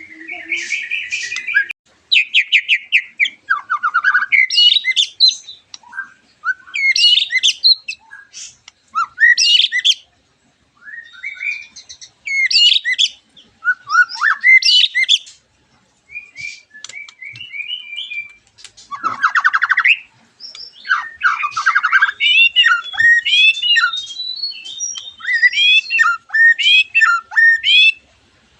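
Several white-rumped shamas singing loudly together: a run of varied whistled phrases with rising and falling notes and rapid trills, broken by short pauses. The phrases come thicker and overlap toward the end.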